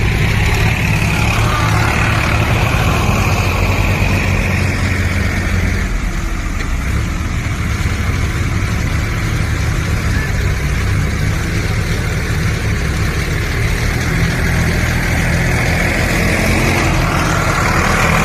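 John Deere tractor engine running steadily, its low note fading somewhat through the middle and coming back toward the end.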